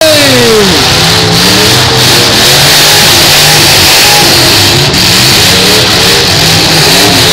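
Several demolition derby cars' engines revving and running loud together, their pitches wavering up and down, with one dropping sharply in pitch right at the start, over a steady wash of noise.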